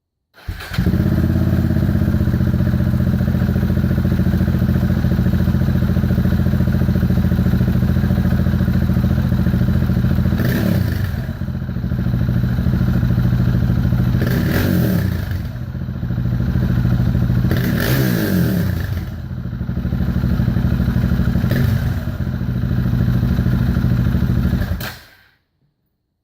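2014 KTM 690 Duke's single-cylinder engine running through an Ixil Hexoval Xtreme Evolution exhaust with no baffle fitted and the catalytic converter removed. It idles steadily, is blipped four times in the second half, and stops abruptly near the end.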